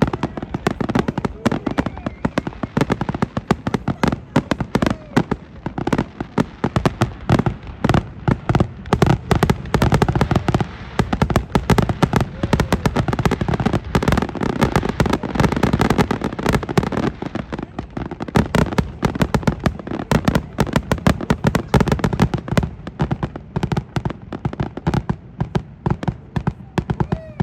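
Fireworks going off in a dense, rapid barrage of bangs and crackles, many overlapping bursts each second.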